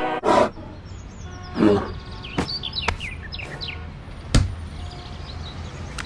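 Birds chirping: a run of short, high, falling chirps over a couple of seconds, with a few scattered clicks and one sharp knock about four seconds in.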